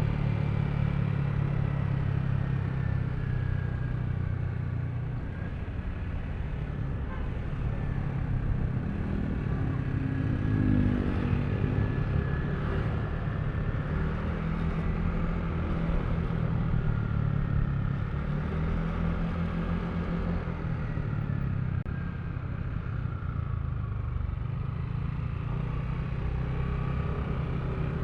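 Yamaha Aerox V3 scooter's 155 cc single-cylinder engine running on the move, its pitch rising and falling as the throttle is opened and eased, over road and tyre noise.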